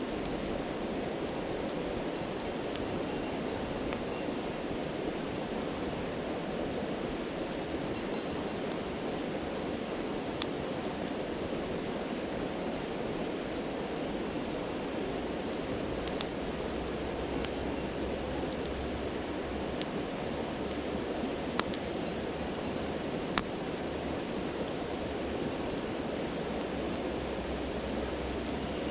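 A stream rushes steadily, with a campfire crackling lightly over it in a few scattered sharp pops. The loudest pop comes about two-thirds of the way through.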